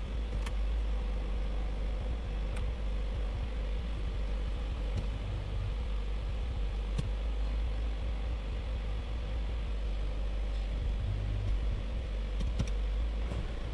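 Ford Escape's engine idling steadily, heard from inside the cabin, while the automatic transmission is shifted through its gears to circulate freshly filled fluid. A few faint clicks sound now and then.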